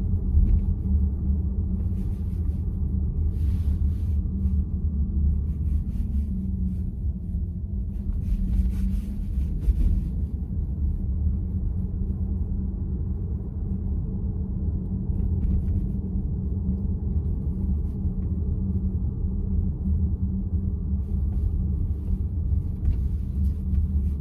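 Steady low road and tyre rumble inside the cabin of a moving VW ID.4 electric SUV, with brief patches of faint hiss.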